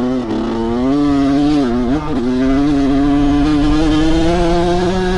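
Dirt bike engine running under way. Its pitch drops and climbs again twice, about a third of a second in and around two seconds in, with the throttle or a gear change. It then holds a steady, slowly rising pitch.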